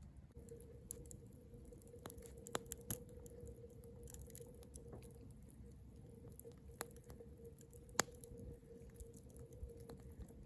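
Campfire crackling with irregular sharp pops, the loudest about a third of the way in and again near the end, over a faint steady hum.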